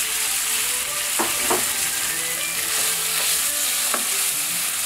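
Chicken pieces sizzling steadily in hot oil in a nonstick wok, freshly added. A wooden spatula stirs them, scraping and knocking against the pan a few times.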